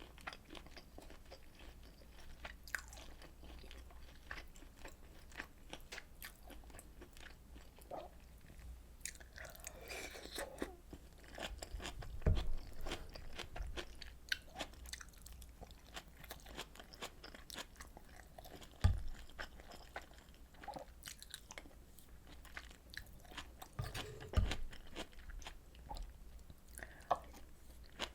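Close-miked chewing and biting of food, with many small wet clicks through the mouthfuls. Three dull low knocks stand out, about 12, 19 and 24 seconds in.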